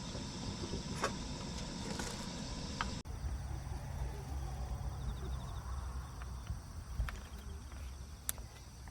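Outdoor ambience with steady insect chirping and a few sharp knocks or clicks. About three seconds in, the sound cuts to a different take with a low rumble underneath.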